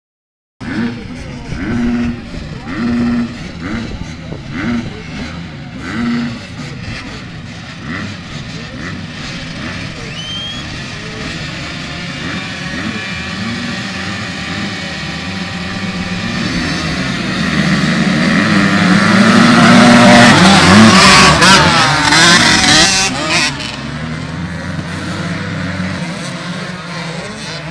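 Motocross dirt bike engines running and revving, with short bursts of throttle in the first few seconds. Later a bike grows steadily louder and passes close, its engine pitch rising and falling, then fades away.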